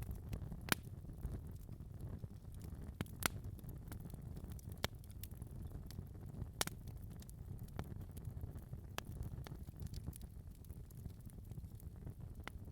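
Wood fire burning in a fireplace: a low, steady rumble of flames with sharp crackles and pops at irregular intervals, the loudest about a second in and again around three seconds in.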